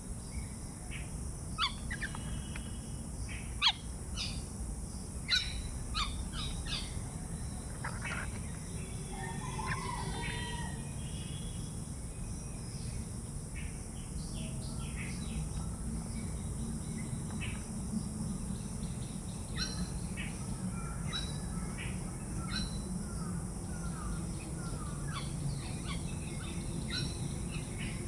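Birds calling outdoors: many short, sharp chirps, clustered at the start and again in the second half, over a steady low background hum.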